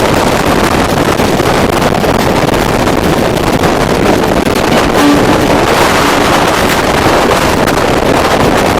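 Express passenger train running, a loud, steady rush and rumble with wind buffeting the microphone.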